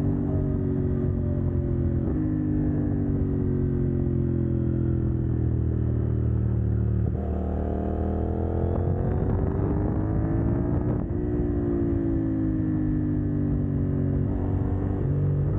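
CF Moto 800NK's parallel-twin engine, run through a de-catted exhaust, easing off on the overrun with a steadily falling note, then accelerating with a rising note about halfway through. The pitch drops abruptly at an upshift a few seconds later, sags, and climbs again near the end.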